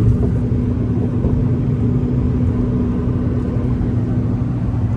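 Steady rumble of a car driving, heard from inside the cabin: road and engine noise with a steady low hum.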